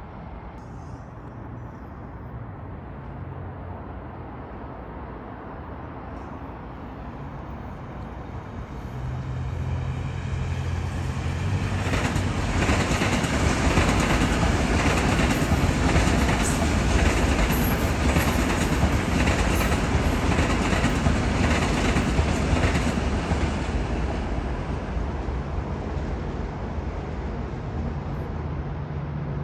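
Long Island Rail Road electric commuter train passing. Its noise builds over several seconds and is loudest in the middle with rapid wheel clatter on the rails, then eases off.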